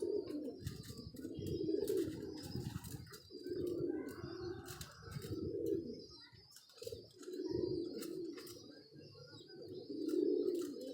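Domestic pigeons cooing, low warbling coos swelling and fading every second or two, with light scattered clicks.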